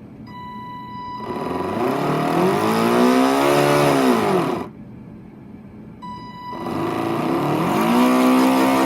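RC boat's electric motor and propeller run out of the water in two throttle bursts: each starts with a steady high whine, then the motor spins up with a rushing whir, rising in pitch and falling back as the throttle is released. The motor is running dry, without its water cooling, which makes it heat up quickly.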